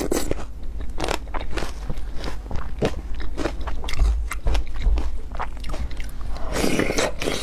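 Close-miked chewing and lip smacking of a yogurt fruit salad with dragon fruit and oat flakes, eaten from a wooden spoon, with many small wet clicks and crunches and a louder mouthful near the end.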